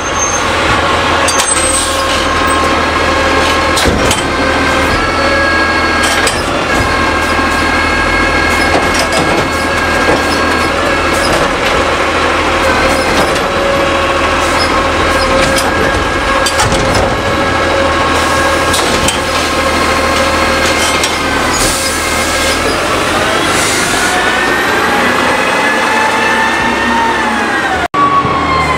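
Curbtender garbage truck running with a steady mechanical whine, broken by occasional knocks and clunks. In the last few seconds the pitch climbs steadily as the truck revs up, then the sound cuts off briefly near the end.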